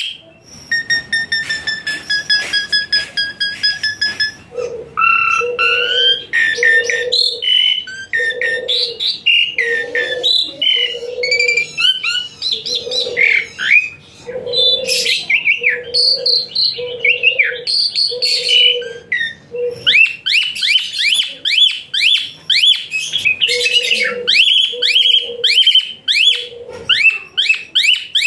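Asian pied starling (jalak suren) singing a loud, varied song: a held whistle at the start, then a jumble of shrill sweeping whistles and harsh notes. In the last third it repeats a quick rising note about three times a second.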